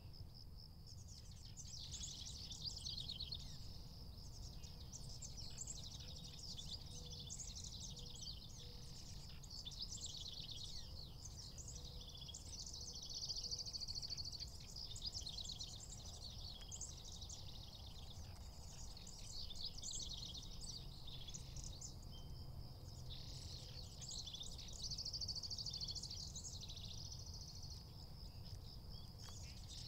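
Faint outdoor field ambience: birds chirping and trilling over and over, with a steady high-pitched tone beneath them and a low background rumble.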